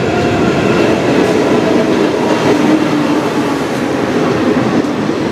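Diesel-hauled passenger train passing close along the platform: the locomotive goes by and the coaches roll past the microphone, a loud, steady running sound.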